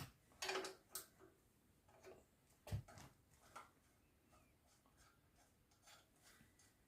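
Near silence broken by a few light clicks and knocks, the loudest about three seconds in.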